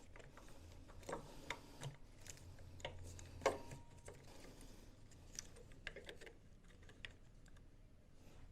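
Irregular light clicks and taps of small metal parts and hand tools being handled, with one sharper knock about three and a half seconds in, over a faint steady low hum.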